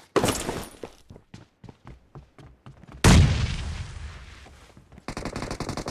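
Video-game gunfire sound effects: scattered single shots, then about three seconds in a loud explosion that dies away over about two seconds, followed near the end by rapid automatic fire.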